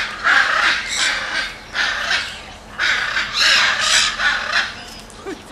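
Monkeys screaming in a fight: a string of about six loud, harsh screeches, fading toward the end.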